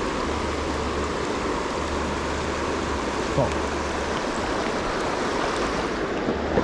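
River water rushing steadily, a continuous even wash of flowing water, with one small knock about halfway through.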